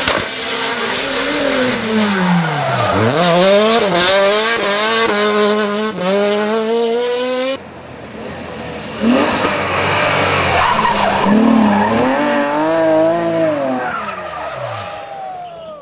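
Rally car engines revving hard, the pitch dropping and climbing with lifts, downshifts and acceleration, with tyres skidding. There are two separate passages: the first stops abruptly about seven and a half seconds in, and a second car's engine comes in about a second and a half later and fades away near the end.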